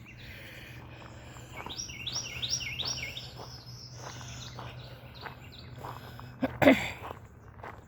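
A songbird singing a loud repeated phrase of quick high notes, about four a second, breaking off and starting again. Footsteps go along underneath, and there is a single loud thump near the end.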